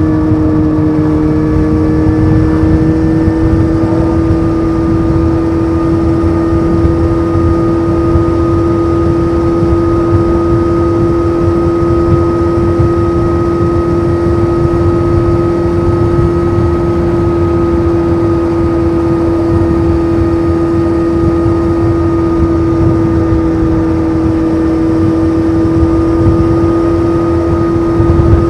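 Honda CBF 600 inline-four motorcycle, with a titanium sport exhaust, cruising at a steady engine speed. The exhaust note rises slightly over the first few seconds, then holds an almost constant pitch over a low rush of wind and road noise.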